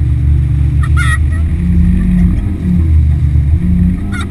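Yamaha F60 four-stroke outboard motor running steadily under way. A brief high-pitched call cuts in about a second in.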